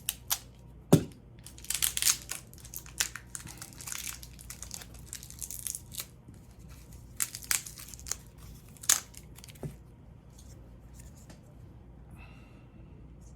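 Sealed plastic packet being torn open and crinkled by hand: a dense run of sharp crackles and tearing snaps that dies down about ten seconds in.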